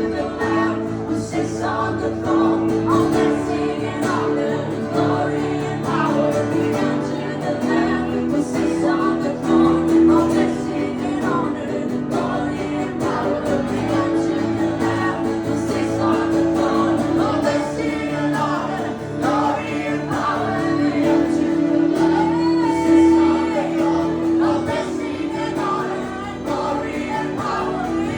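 Live acoustic worship music: voices singing a flowing, unbroken melody over sustained accompaniment chords.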